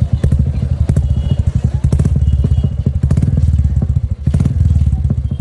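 Royal Enfield Goan Classic 350's single-cylinder engine idling through a Globe Xploder aftermarket performance exhaust, a fast, steady beat of deep exhaust pulses.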